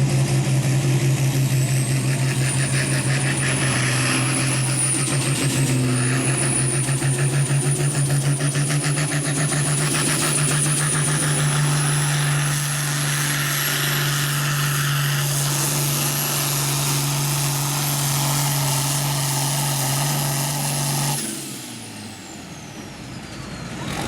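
Turbocharged diesel pulling tractor at full throttle under load as it drags the sled, its engine note steady with a high turbo whistle above it. About three-quarters of the way through, the throttle is cut: the engine drops away and the turbo whistle falls in pitch as it spools down.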